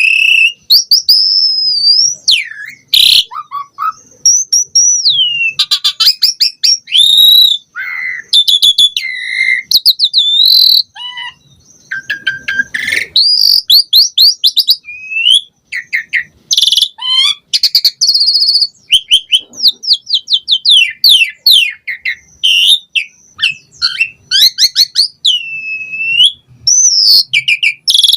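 Asian pied starling (jalak suren) singing a long, varied song in full voice: loud slurred whistles sweeping up and down, runs of rapid stuttering trills and short harsh chattering notes, one phrase after another with hardly a pause.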